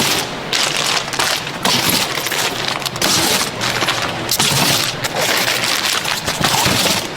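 Production machinery on a cabin air filter line, clattering and rattling in a dense crackle, with louder bursts coming about once or twice a second.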